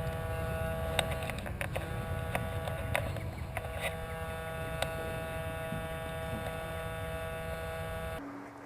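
Steady electrical hum over a low rumble, with a few faint clicks. It cuts off abruptly near the end, leaving a quieter background.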